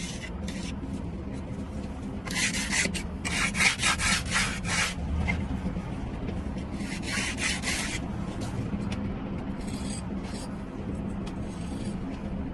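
A hand tool scraping against mortar in quick rasping strokes, a run of them a couple of seconds in and another short run near the middle, with fainter strokes later. A steady low hum runs underneath.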